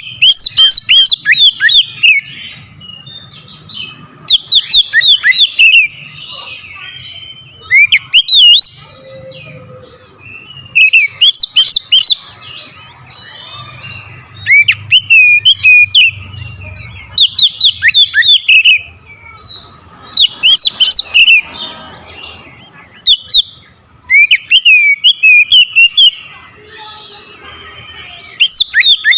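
Oriental magpie-robin (kacer) singing loudly in repeated bursts of whistled, rapidly sweeping and trilled notes, one phrase every three seconds or so. This is the hard, insistent song of a bird in fighting mood, used to provoke rival magpie-robins.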